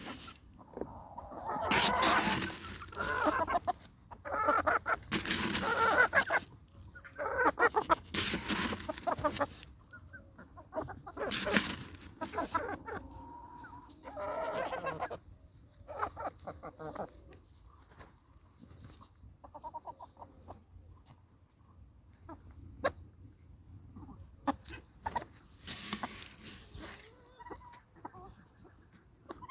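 Chickens clucking and calling, a run of loud, pitched squawks every few seconds in the first half, then quieter clucks and one more loud call near the end.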